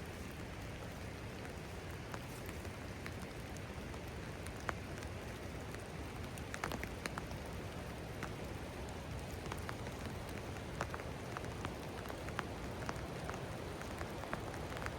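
Steady rain falling, with individual drops ticking sharply close by, more of them in the second half.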